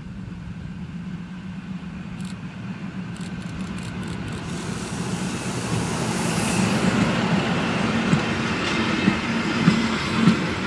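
A train approaching on the line, growing steadily louder, with a steady low hum and, in the second half, the wheels clicking over rail joints.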